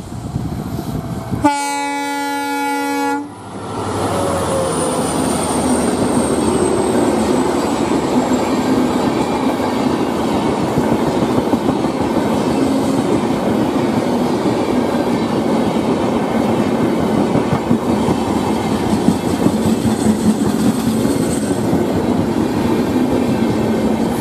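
A WDP4D diesel locomotive sounds one horn blast of under two seconds, about a second and a half in. Its passenger coaches then run past at speed with a steady rumble and wheel clatter on the rails.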